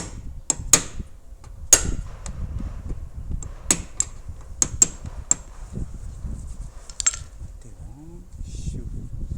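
Hammer tapping dented car sheet metal during panel beating: about nine sharp, ringing metallic taps, irregularly spaced, several in quick pairs.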